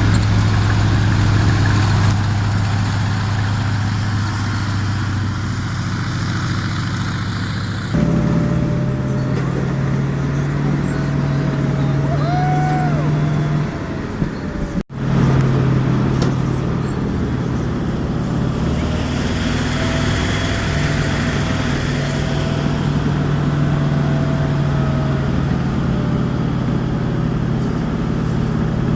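Sherman tank's nine-cylinder Continental R975 radial engine running steadily. The sound changes abruptly about 8 seconds in and drops out for a moment about 15 seconds in, then carries on.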